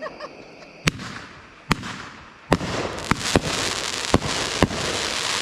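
Fireworks going off: three separate sharp bangs about a second apart, then from about halfway a dense, steady crackling, with several more bangs over it.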